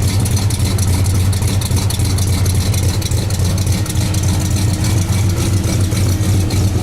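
1970 Oldsmobile Cutlass's V8 idling steadily, a deep, even exhaust rumble with no revving.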